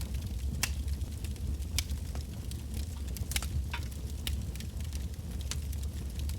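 Wood fire burning: a steady low rumble of the flames with irregular sharp crackles and pops from the burning logs, a handful scattered through.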